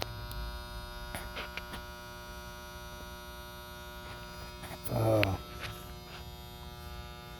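Electric air compressor motor humming steadily without starting: the stalled hum of a motor whose start circuit is not closing, which the owner traces to a centrifugal switch missing its little actuating nub. A click at the start and a brief voice about two-thirds through.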